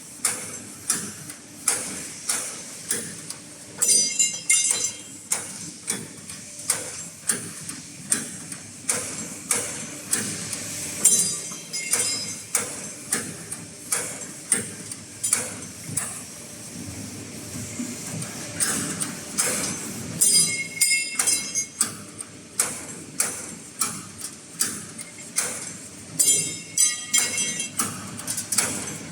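Automatic angle steel punching machine running, its punch striking the angle iron in an even rhythm of about one and a half strokes a second. A higher whirring sound comes in for a second or two every seven or eight seconds.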